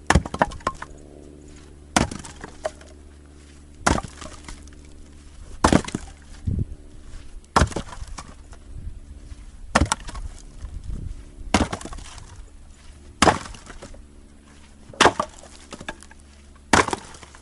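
An 8-pound splitting maul splitting upright sawmill slab wood, about ten sharp chopping strikes evenly spaced roughly every two seconds, with a few softer knocks between some of them.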